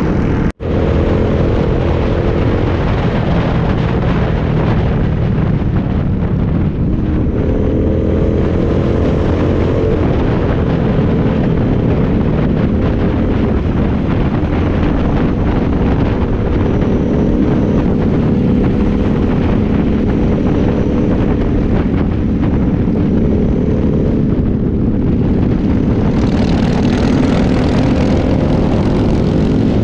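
Motorcycle engine running steadily under way, its pitch shifting slightly up and down with speed. The sound cuts out for an instant about half a second in.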